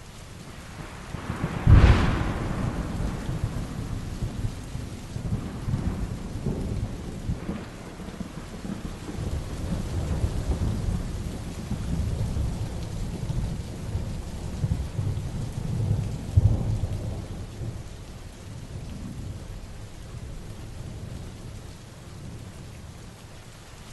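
Heavy rain falling steadily through a thunderstorm. About two seconds in a sharp thunderclap breaks into a long low rolling rumble, and a second loud peal comes about two-thirds of the way through.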